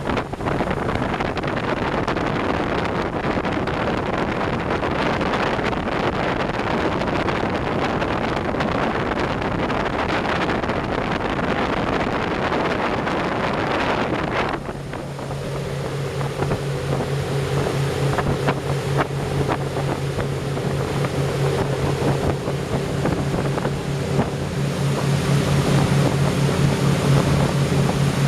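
A 43-foot motor cruiser under way: loud rushing wind and water for the first half, then an abrupt change about halfway through to a steady low engine drone, with wind noise building again near the end.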